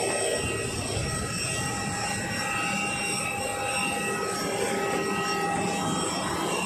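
Jet airliner on the apron running, a steady whine of several held high tones over a rumbling hiss.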